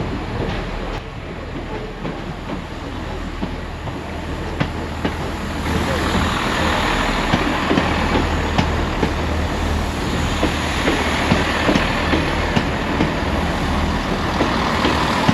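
A large vehicle's engine running with a steady low hum amid street noise, growing louder about six seconds in.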